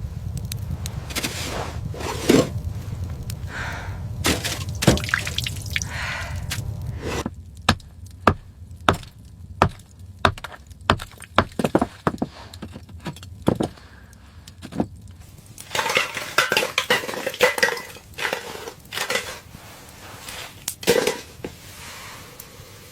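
Irregular sharp knocks and clinks of hard objects being handled, over a low rumble for the first several seconds, with a denser clatter of knocks about two-thirds of the way through.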